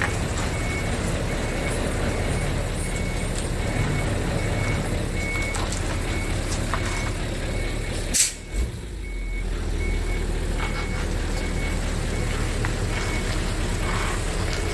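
Hino Super Dolphin truck's 20-litre F20C V8 diesel running steadily, with a high beep repeating on and off. About eight seconds in there is a short sharp hiss of air, and the engine sound dips briefly before settling back.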